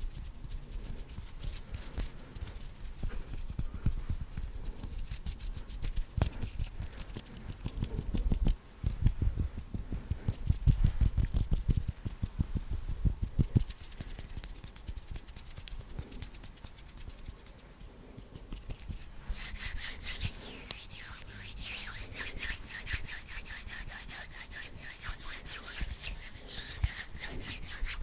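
Bare hands rubbed and fluttered quickly right at the microphone, with no talking. For the first two-thirds the strokes are deep and close, with a run of louder ones around the middle. About two-thirds in, the sound turns to a brighter, crisper run of fast rubbing strokes.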